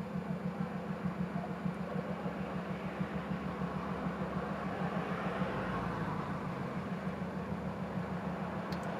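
Taxi's engine idling while parked stationary, a steady, rapid even pulse with no revving.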